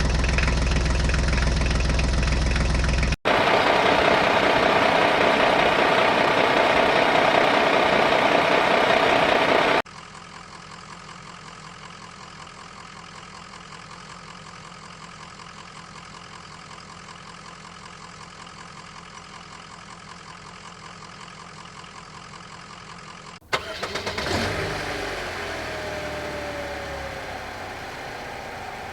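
A motor or engine running steadily, in several segments joined by abrupt cuts that change its loudness: loud at first, much quieter from about ten seconds in, then a different louder sound with a brief sliding tone near the end.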